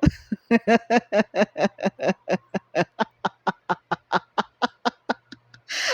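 A woman laughing: a long run of quick, short 'ha' pulses at about six a second that weaken toward the end, finishing with a sharp breath in.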